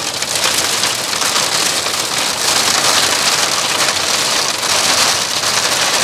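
Heavy downpour of rain falling on a campervan's roof: a dense, steady hiss of drops that grows a little heavier about two and a half seconds in.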